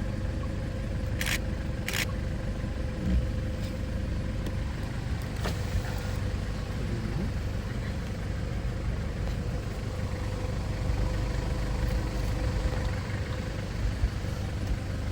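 Safari jeep engine idling with a steady low rumble. Two short sharp clicks come about a second in.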